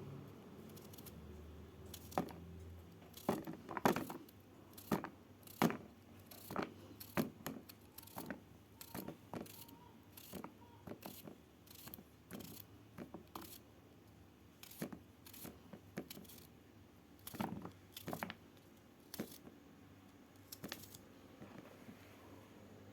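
A long run of light, irregular clicks and taps, one or two a second, as small hard objects are handled and set down.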